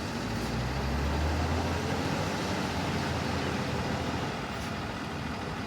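Street traffic: a motor vehicle's low engine hum for the first second or two, over a steady noisy hiss.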